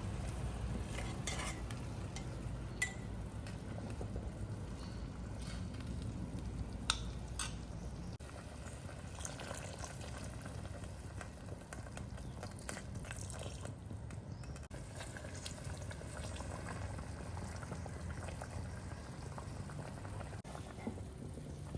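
Food frying in a pot while being stirred, with a few sharp clinks of a utensil against the pot.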